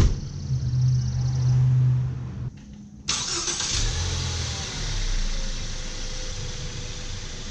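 Ford Fusion's engine starting and running, with a sharp click at the start. About three seconds in the sound changes abruptly to a hissier engine noise with a slowly falling tone.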